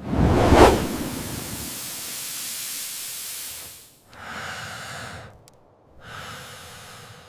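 Wind in gusts: a loud whoosh with a low thump at the start, then a steady high hiss that cuts off about four seconds in, followed by two shorter gusts.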